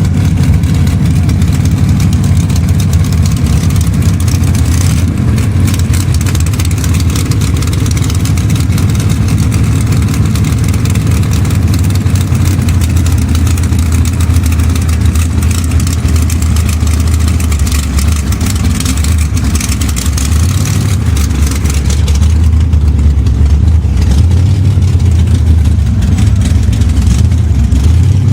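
Drag car's engine idling and running steadily with a loud, low rumble. It gets slightly louder and deeper about three-quarters of the way through.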